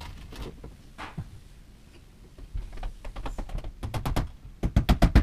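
Hammer driving nails into the wooden bookcase panels: a few scattered taps, then near the end a fast, even run of blows, about eight a second.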